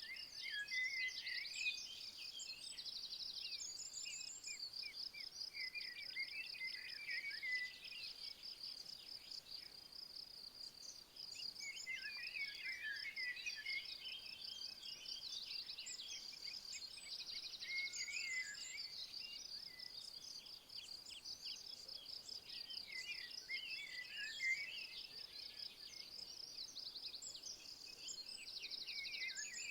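Insects, crickets or bush-crickets, trilling steadily and high-pitched, with birds singing short twittering phrases every few seconds over them.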